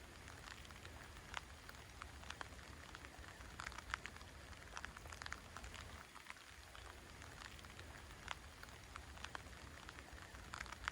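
Light rain falling, heard faintly: a soft steady patter with scattered sharper drips.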